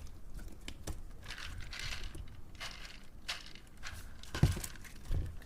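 Sticky, gummy slime being pressed and folded around foam beads, with soft crunching and crackling and scattered small clicks. There is a louder sharp pop about four and a half seconds in.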